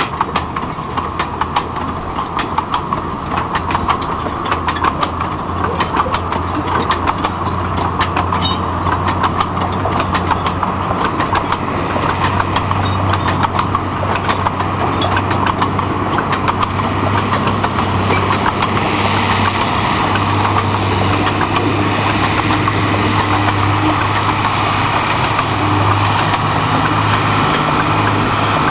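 Narrow gauge industrial train running on a salt railway: a steady engine hum under a dense rattle and clicking of wagons on the track. From about two-thirds of the way through, a brighter hiss joins the run.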